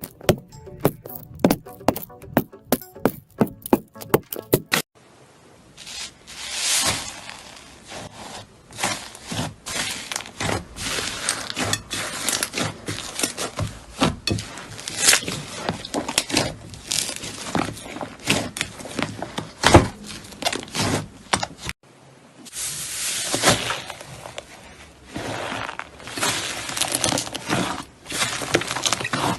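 A few seconds of music with a regular beat, then slime being squeezed and pressed by hand, giving dense, irregular crackling and popping clicks. A short break comes about 22 seconds in, and then the crackling resumes.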